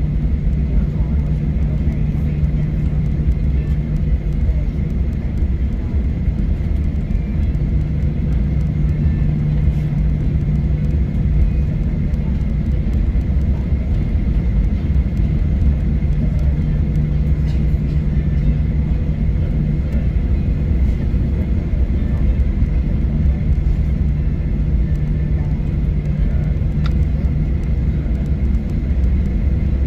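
Steady cabin noise inside a Boeing 737-900ER on the ground with its CFM56-7B engines at idle: a low rumble with a hum and a faint high whine. The hum drops out briefly a couple of times.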